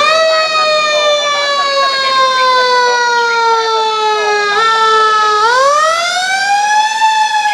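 Fire apparatus siren wailing. Its pitch falls slowly for about five seconds, winds up again, and begins to fall once more near the end.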